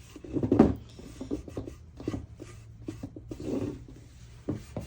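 Wet paper towel rubbing over a painted cigar box in a run of uneven wiping strokes, the loudest about half a second in, as white wax is wiped back off the surface.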